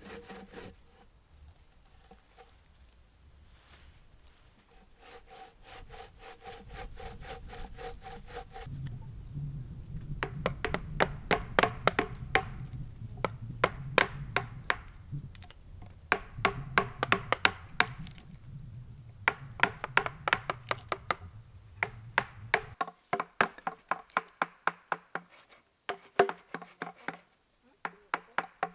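Hand saw cutting through a wooden log in runs of quick back-and-forth strokes, with short pauses between runs.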